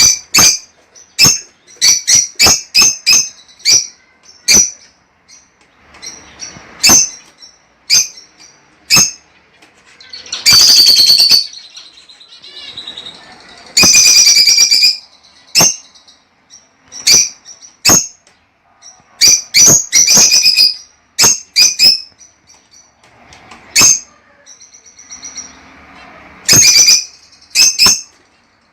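Lovebirds calling: many short, shrill chirps in quick runs, broken by a few longer, rapid chattering bursts about ten and fourteen seconds in.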